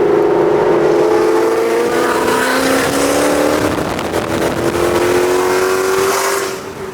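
Ford Mustang GT V8 engine and exhaust pulling under steady acceleration while driving, its pitch climbing slowly.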